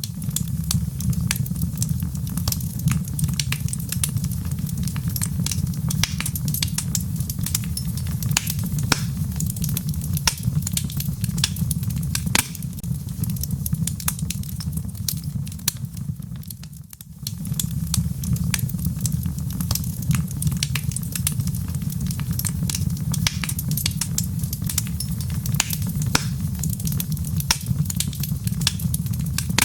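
Wood fire crackling in a fireplace: many sharp irregular pops and snaps over a steady low rumble. The level dips briefly about 17 seconds in, then picks up again.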